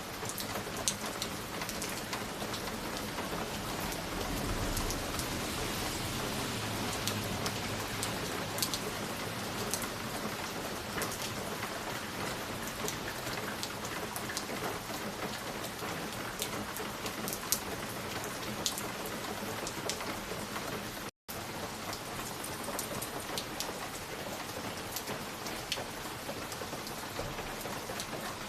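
Wood fire crackling in a fireplace: a steady hiss with scattered sharp pops and snaps. The sound cuts out for a split second about 21 seconds in.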